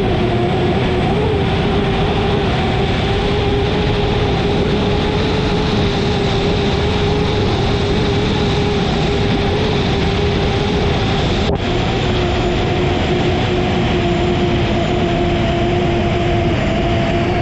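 Turbine engine of an unlimited hydroplane heard onboard, running steadily with a constant two-tone whine over a dense rushing noise.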